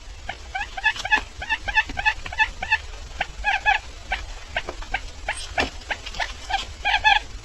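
Barred buttonquail giving short, squeaky chirping notes, several a second in uneven clusters, with sharp clicks among them.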